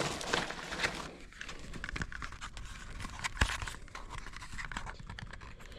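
Handling noises: scrapes, rustles and small clicks of hands working with tools and parts, with one sharp click about three and a half seconds in.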